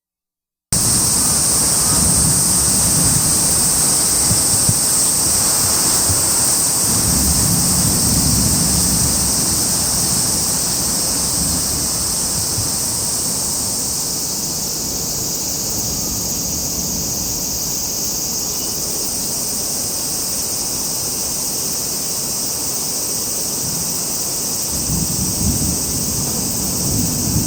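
Steady wind-and-rain storm noise with a strong high hiss, cutting in abruptly just under a second in. Low rumbling gusts swell up a few times, the last and strongest near the end.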